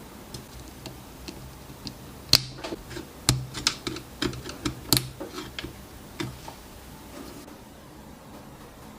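Irregular clicks and knocks of small hard parts being handled, about a dozen of them over some six seconds, with a few sharper taps among them, then stopping.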